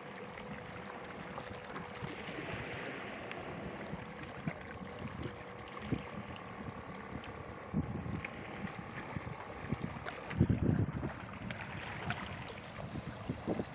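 Wind buffeting the microphone over open water, with water noise around a small boat. A faint steady hum fades out partway through, and a louder gust or knock comes about ten seconds in.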